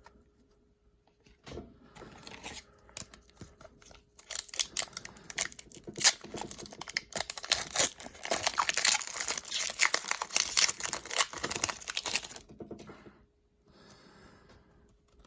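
A hockey card pack's wrapper being torn open and crinkled in the hands. There are a few faint rustles at first, then dense, rapid crackling from about four seconds in to about twelve seconds.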